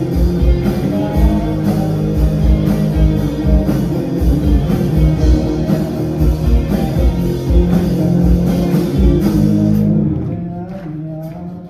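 Live rock band of electric guitars, bass, drums and keyboard playing at full volume with a steady drum beat. About ten seconds in, the drums and cymbals stop and the music drops to a much quieter passage.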